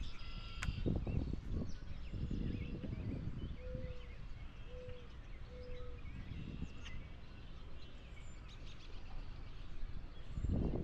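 Songbirds chirping and calling, with three short, low, flat notes about a second apart near the middle, over a low rumbling noise. A sharp click sounds near the start.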